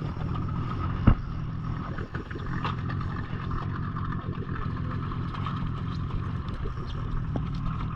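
Boat engine running steadily, with a single sharp knock about a second in.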